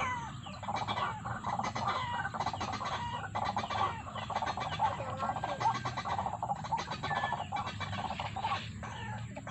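Clucking, chattering fowl-like bird calls that go on without a break.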